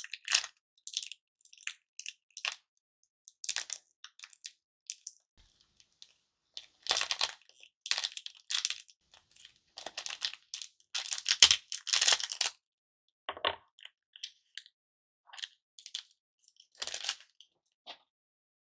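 Hard-candy lollipops being crushed and handled, likely inside their plastic wrappers: irregular crunching and crackling in short bursts with brief pauses, and a couple of duller knocks.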